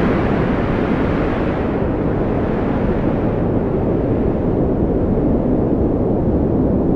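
Strong wind blowing steadily, a loud rushing noise centred in the low and middle range, surging slightly about two seconds in.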